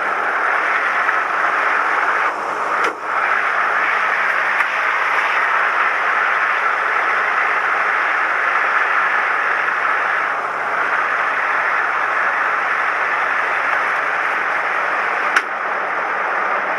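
Steady engine and propeller noise inside the cabin of a Cessna 172M, whose four-cylinder Lycoming engine runs at a constant setting, heard as a loud even rush with a low engine drone beneath it. Two short clicks stand out, about three seconds in and near the end.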